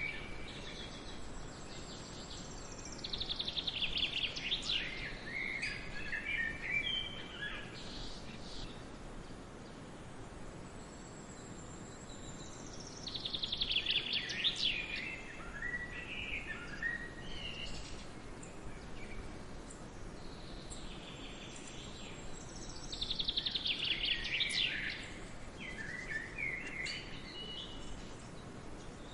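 A songbird singing three similar phrases about ten seconds apart, each a rapid trill followed by a tumble of falling notes, over a steady background hiss.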